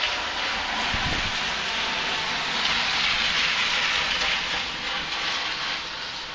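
Heavy rain pouring down in strong wind, a steady dense hiss that swells louder for a couple of seconds in the middle as a gust drives it harder. A brief low thump comes about a second in.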